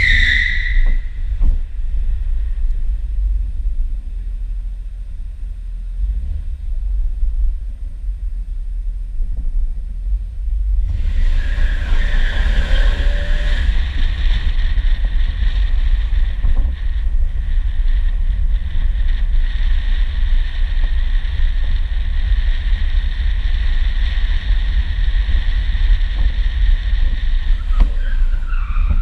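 Pontiac Firebird's engine running with a deep, steady rumble. About eleven seconds in, a tire starts squealing and keeps on until near the end.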